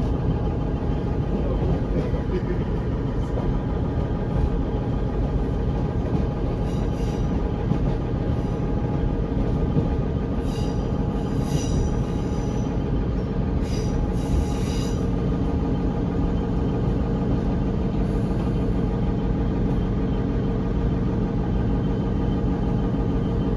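Interior running sound of a British Rail Class 150/1 diesel multiple unit: its underfloor Cummins diesel engines and the wheels on the rails make a steady rumble. A few short, high-pitched metallic squeals come about halfway through.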